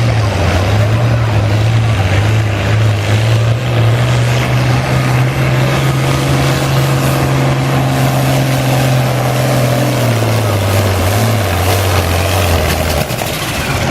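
Farmall 966 pulling tractor running at full throttle down the track. The engine note holds steady, then drops in pitch in steps from about ten seconds in as the engine lugs down under the sled's load.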